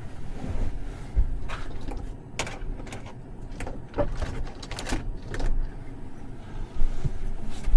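Steady low rumble of storm wind buffeting a pickup's fiberglass camper shell, with a series of sharp knocks and clicks from someone moving around inside it.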